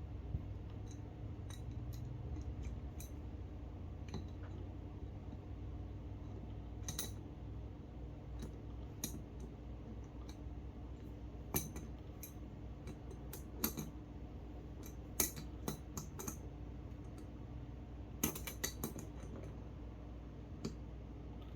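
Light metallic clicks and clinks of a nut being tightened onto an eyebolt inside a glass bottle, coming irregularly and sometimes in quick clusters, over a low steady hum.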